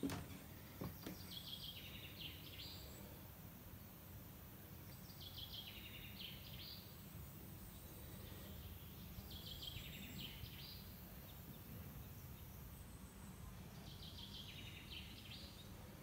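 A songbird singing the same short phrase four times, about every four seconds, each a quick run of notes stepping downward. The song is faint over a low, steady rumble, with a couple of clicks right at the start.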